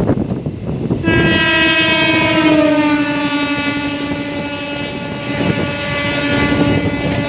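A train horn sounds one long blast of about six seconds, starting about a second in, its pitch dropping a little about a second and a half after it starts. The rumble of the moving train runs underneath.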